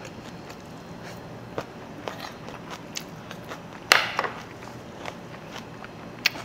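Close-miked chewing of someone eating, with scattered light clicks and one sharper click about four seconds in.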